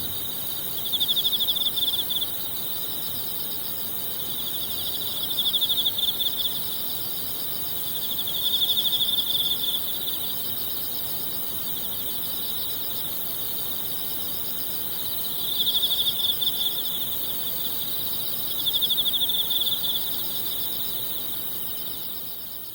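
Autumn night insects calling: high pulsed trills swell in bursts every few seconds over a steady high chorus. The sound fades out near the end.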